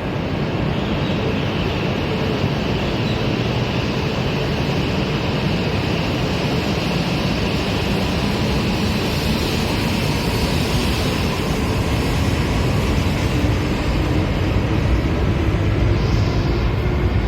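Running noise of an E5 series Shinkansen at speed: a steady low rumble and rushing sound, with a higher hiss that swells and fades about halfway through.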